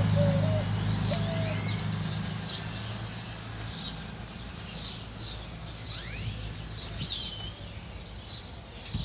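Small birds chirping outdoors, short high chirps repeating about twice a second with a few sliding calls, and a dove-like low cooing near the start. A steady low hum, like an idling engine, fades away about three to four seconds in.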